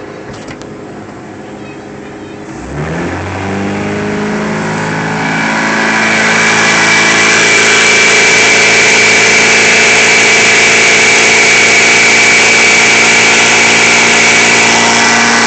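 Carbureted boat engine idling, then sped up about two and a half seconds in, its pitch rising over a few seconds before it holds at a steady, louder higher speed.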